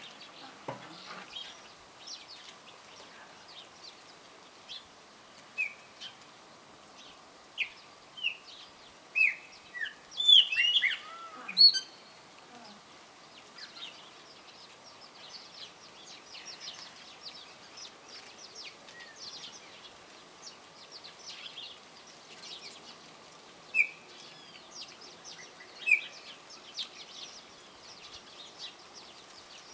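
Backyard songbirds, chopi blackbirds and saffron finches among them, chirping and calling. Short high chirps continue throughout, with a burst of louder gliding calls about ten seconds in and a couple of single sharp calls near the end.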